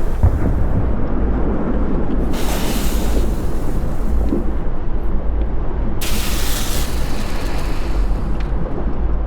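Volcanic eruption rumbling steadily and deeply, with two bursts of higher hiss that come and go abruptly, about two seconds in and again near six seconds.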